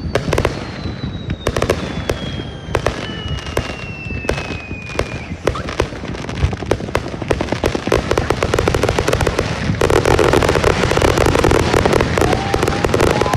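Fireworks going off in a rapid string of sharp bangs, with a high whistle falling steadily in pitch over the first five seconds. About ten seconds in, the bangs thicken into a dense, louder crackling barrage.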